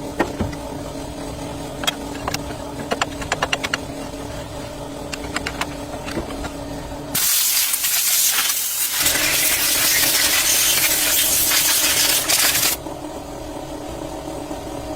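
A loud, steady spray hiss lasting about five and a half seconds, starting and stopping abruptly, over a steady machine hum. A quick run of small clicks comes about three seconds in.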